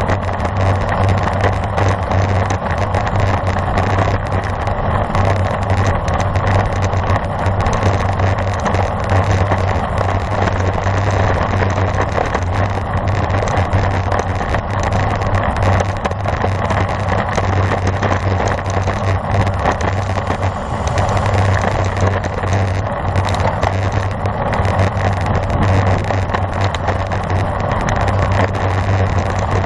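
Steady rushing wind and road noise on a camera riding on a racing bicycle at speed, with a constant low rumble.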